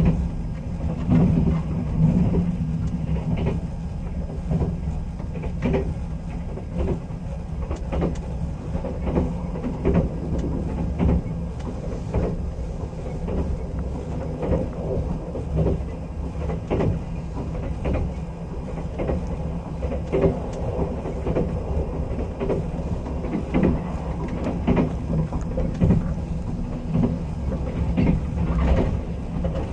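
Sleeper-train passenger carriage running along the rails, heard from inside the compartment: a steady low rumble broken by frequent irregular knocks of the wheels over rail joints.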